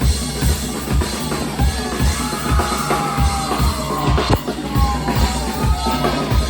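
Live band music driven by a drum kit, with a steady kick-drum beat and snare. About two seconds in, a melody line with sliding notes joins in.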